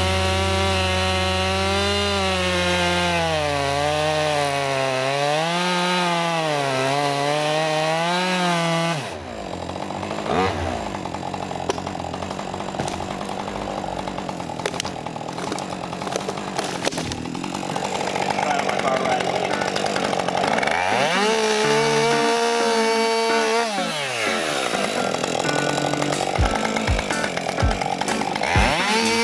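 Husqvarna 550XP two-stroke chainsaw cutting a downed tree, its engine pitch wavering up and down under load for about nine seconds. It then runs rougher and noisier with scattered knocks, and near the end revs up and drops back.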